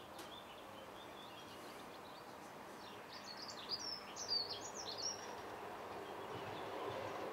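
A bird sings a short burst of quick chirps in the middle, over a steady outdoor background. A T69 tram's rumble slowly grows louder near the end as it approaches along the track.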